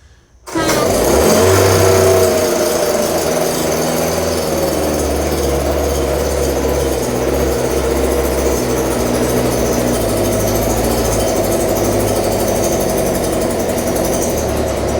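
Stihl BG 86C handheld leaf blower's two-stroke engine catching on a cold start about half a second in, loudest just after it catches, then running steadily.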